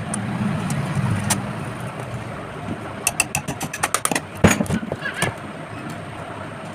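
A quick series of sharp clicks and knocks, the loudest a little past the middle, over a steady low rumble.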